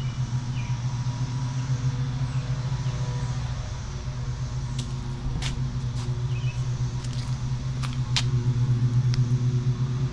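A steady low mechanical hum, like an idling engine, runs throughout. A few sharp clicks come between about five and eight seconds in, with faint short chirps now and then.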